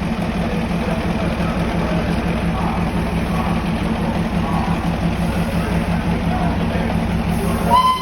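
Darjeeling Himalayan Railway locomotive running with a steady, fast low pulsing, and a short whistle toot near the end.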